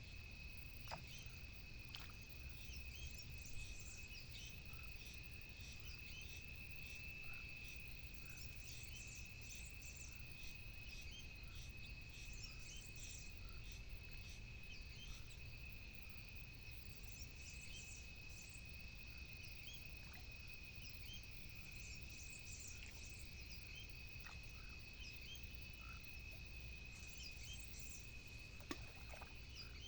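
Insects trilling in one steady, unbroken high tone, with scattered short higher chirps and a few faint clicks over a low rumble.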